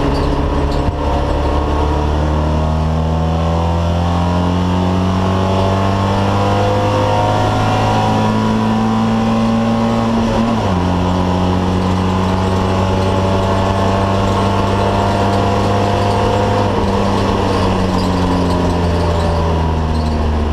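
Alfa Romeo car engine pulling under load with its pitch climbing slowly, then dropping sharply about ten seconds in at a gear change before climbing again.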